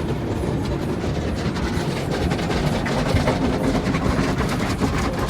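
Tunnel car wash brushes scrubbing and slapping against the car's body, heard from inside the cabin as a steady, dense run of rapid strokes.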